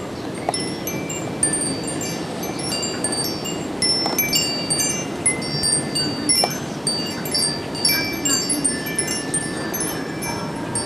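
Metal wind chimes ringing irregularly in gusty wind, many clear high notes struck in quick succession and growing busier about four seconds in, over a steady rush of wind.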